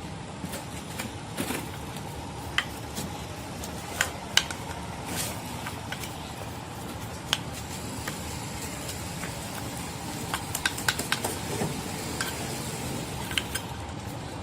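Scattered light clinks and taps of small metal parts being handled during work on an engine starter, over a steady background hiss.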